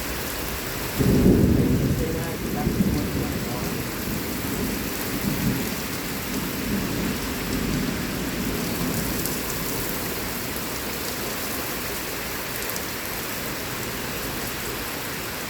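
Heavy thunderstorm rain falling steadily, with a close thunderclap that breaks suddenly about a second in and rolls on in low rumbles for several seconds before fading back under the rain.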